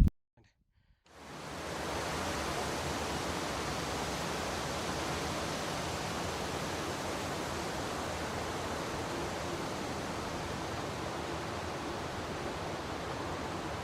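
A steady, even rushing noise across low and high pitches fades in about a second in, after a brief silence, and then holds level.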